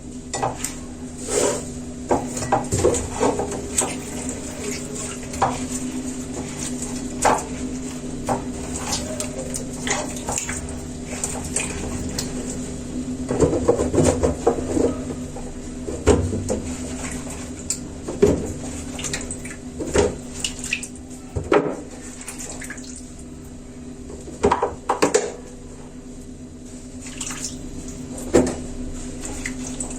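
Lemons and coarse salt being handled and packed into a jar: irregular knocks and clinks of fruit and salt against the vessels, over a steady low hum.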